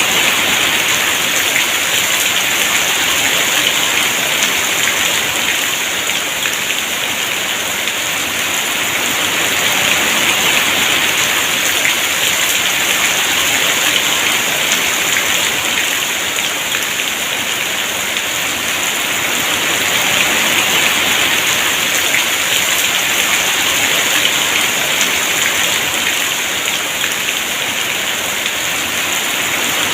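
Heavy rain falling steadily, a dense hiss of drops on surfaces that swells and eases gently every several seconds.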